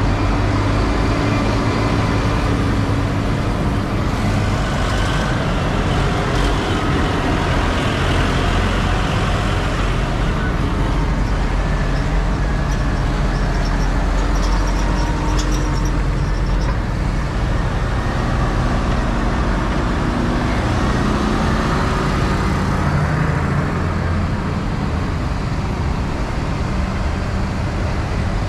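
Tractor engine running steadily while the tractor drives along the road.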